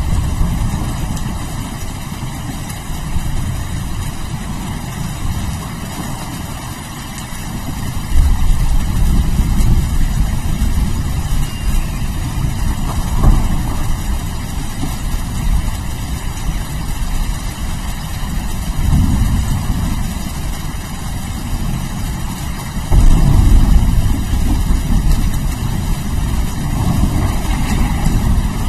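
Steady rain with rolling thunder: low rumbles swell up about 8 seconds in, again near 19 seconds, and most strongly about 23 seconds in.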